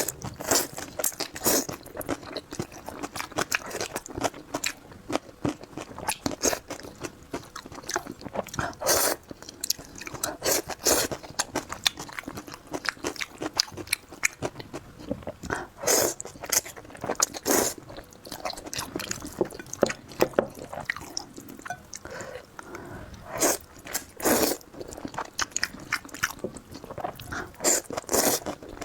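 Close-miked eating: a person biting and chewing food with a crunchy mouth sound, in irregular bites and chews, a few of them markedly louder.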